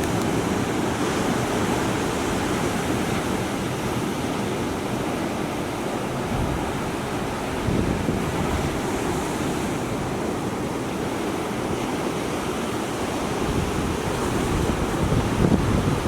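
Big storm waves breaking on the shore in rough seas ahead of a typhoon, a continuous rush of surf with wind buffeting the microphone, swelling louder near the end.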